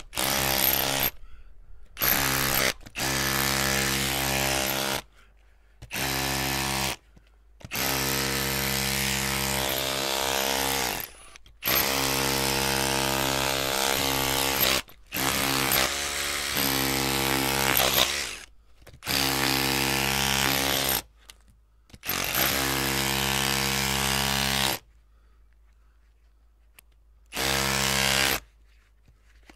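Electric drill motor running in about ten bursts of one to three seconds, as the trigger is pressed and released. Each burst is a steady motor whine, and the gaps between them are near silent. There is a longer pause of about two and a half seconds near the end.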